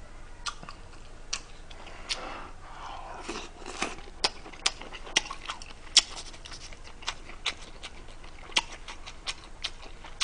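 Close-miked chewing of pork neck steak and salad, with sharp, irregular wet mouth smacks and clicks.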